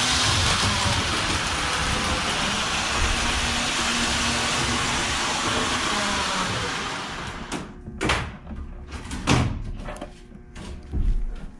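Model train running on the layout track with a steady rushing rumble that fades out about seven seconds in. It is followed by a string of sharp clicks and knocks.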